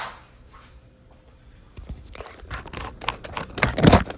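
A sharp click, then a run of irregular scraping and knocking from hands working on the toilet tank and its fill-valve parts, loudest near the end.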